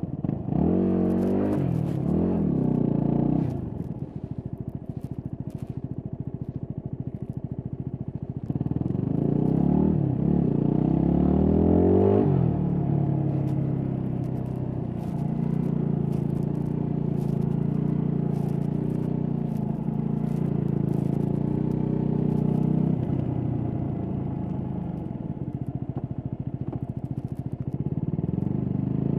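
Stock Yamaha WR250X's 250 cc single-cylinder four-stroke engine under way. Its revs climb in a rising pull near the start, drop back to a low steady run, then climb again in several quick rising pulls. It holds a long steady run, eases off, and revs up once more near the end. Faint clicks and rubbing come from the microphone touching the gear it is carried in.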